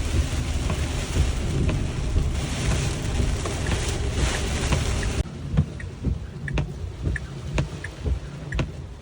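Rain falling hard with a deep rumble underneath, cutting off abruptly about five seconds in to lighter rain with individual drops tapping close by.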